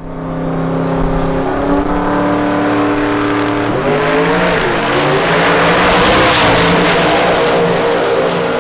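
Twin-turbo Hemi V8 of a drag-racing Plymouth 'Cuda running hard. Its pitch steps up about two seconds in and again about four seconds in, and it is loudest about six seconds in, with a faint high whine over the top.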